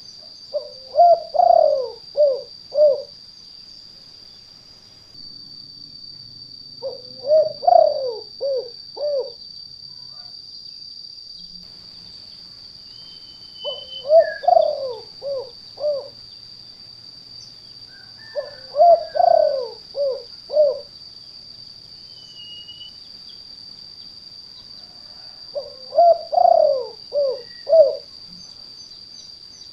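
Spotted dove (tekukur) cooing in the 'kuk 2' style: five phrases about six seconds apart, each a drawn-out wavering coo followed by a few short notes. A steady high-pitched drone runs underneath.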